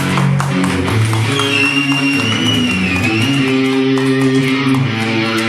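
Live rock band playing, led by guitars holding sustained notes over the bass, with a high wavering tone sliding through the middle.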